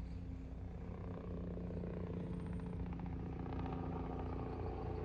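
Steady low hum of motor vehicle engines from road traffic.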